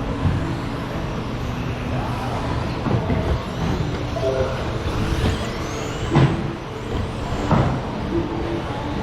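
1/10-scale electric RC stadium trucks with 13.5-turn brushless motors racing on a carpet track: a steady noise of motors and tyres, with motor whines rising in pitch as the trucks accelerate. Two sharp knocks stand out, about six seconds in and again a second and a half later.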